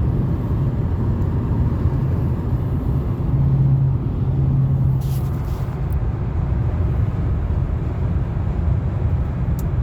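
Steady low road and engine rumble inside a moving Toyota Camry's cabin, with a few faint short clicks about five seconds in and near the end, which may be the driver's door rattle.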